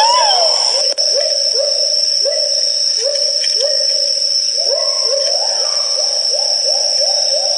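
Great argus pheasant (kuau) calling: a series of short upward-sliding notes that quickens to about three a second in the second half. A steady high whine runs underneath.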